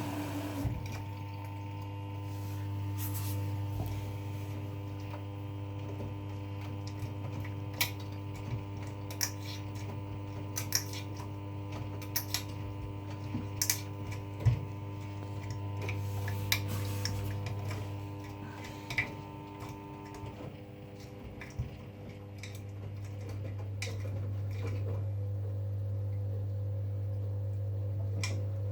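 V-Zug Unimatic SL washing machine (2011) running early in a 40 °C wash: a steady low motor hum that swells and eases, with scattered sharp clicks and clinks throughout. One of its steady tones stops about two-thirds of the way through.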